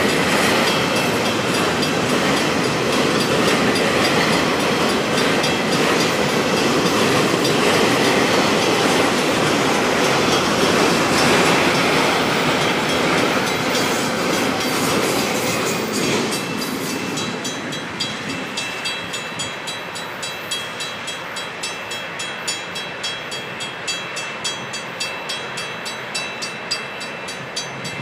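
Freight train of autorack cars rolling past, wheels clattering on the rails. About two-thirds of the way in, the last car clears, the level drops, and a grade-crossing warning bell rings steadily, about two strikes a second.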